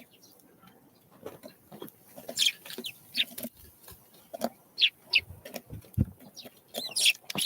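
Small wild songbirds calling: a dozen or so short, sharp, high notes at irregular intervals, mixed with light taps and knocks.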